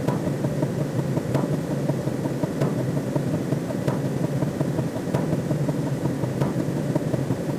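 A steady low drone with a faint click about every second and a quarter.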